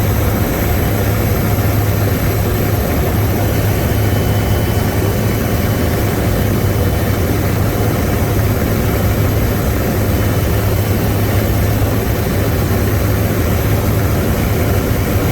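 Helicopter engine and rotor noise in steady flight, heard from inside the cabin: a loud, even drone with a constant low hum.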